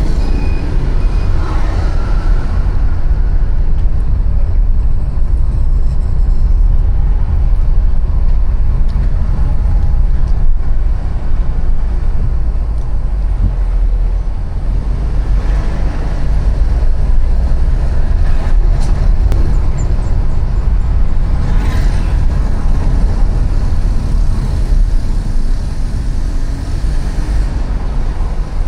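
Street traffic heard while riding along a city road: a steady rumble of passing cars and motorbikes, with a heavy low rumble that dominates throughout. Vehicles swell past and fade about two seconds in, around the middle, and again a few seconds later.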